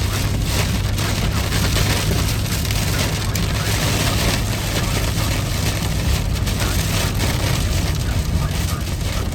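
Heavy rain on a moving car, with wet tyre and road noise over a steady low hum from the car.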